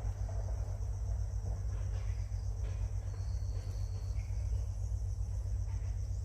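Insect trill, high-pitched and evenly pulsing without a break, over a steady low rumble.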